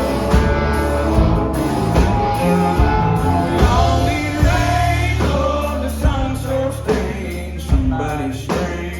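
Live rock band playing with a sung vocal line over drums, bass and electric guitar.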